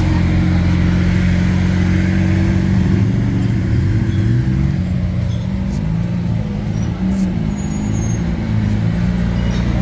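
Lamborghini Aventador's V12 engine running at low revs, a steady deep drone whose pitch shifts up and down through the middle few seconds before settling again.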